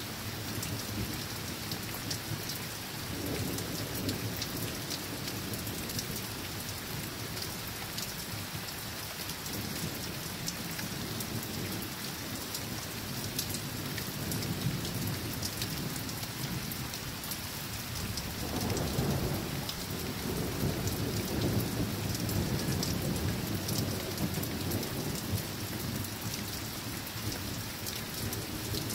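Steady rain falling and pattering, with distant thunder rumbling low in several rolling swells. The longest and loudest roll comes about two-thirds of the way through.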